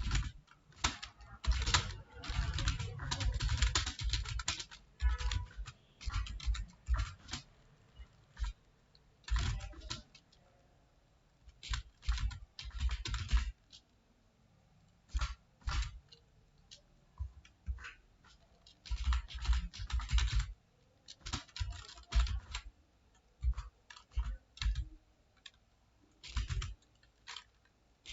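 Computer keyboard being typed on in runs of rapid keystrokes, with short pauses of a second or two between runs.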